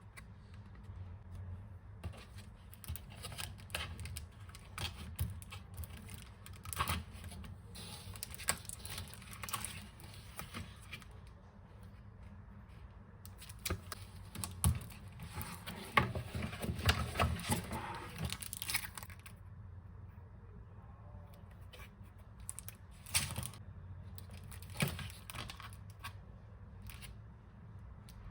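Packaging being torn open and crinkled by hand in three spells of sharp crackling, the loudest in the middle.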